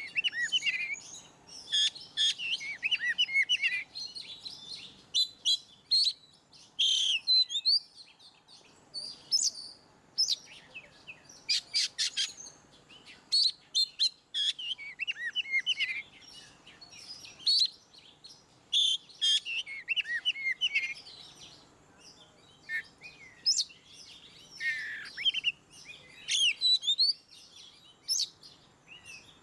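Oriental magpie-robin (kacer) singing a varied song of quick whistles, trills and sharp clicking notes, in phrases of a second or two with short pauses between.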